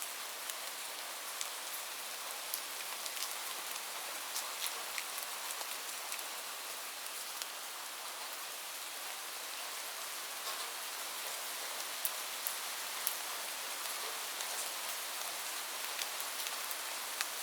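Steady rain falling, an even hiss with many sharp, scattered drop hits standing out from it.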